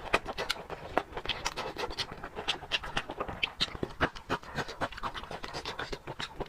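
Close-up mukbang eating sounds: dense, irregular wet clicks, crunches and smacks of chewing, several a second.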